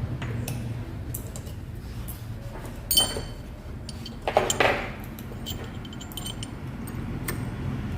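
Metal engine gearbox parts clinking as they are handled during reassembly: a sharp ringing clink about three seconds in, then a short run of clinks and scraping a second and a half later, over a steady low hum.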